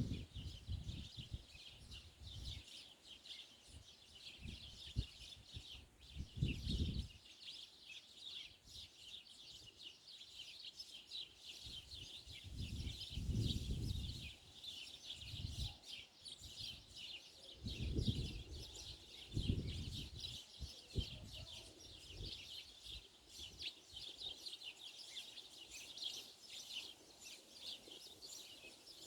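Many small birds chirping together in a dense, continuous chatter of short high notes. Low rumbles come and go several times beneath it.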